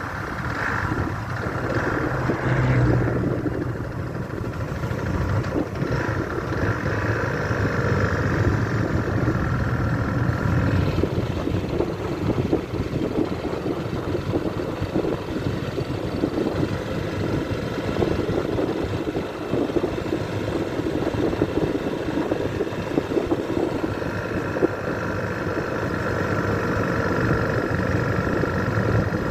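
Motorcycle engine running steadily on the road, with wind noise on the microphone.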